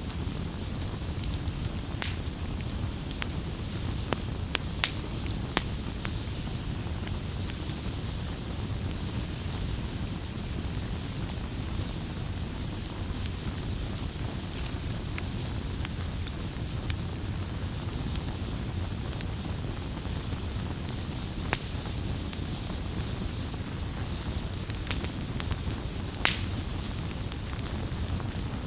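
Campfire burning with a steady low rumble and a soft hiss, broken by scattered sharp crackles and pops from the burning wood. There is a cluster of pops in the first few seconds and a louder pop near the end.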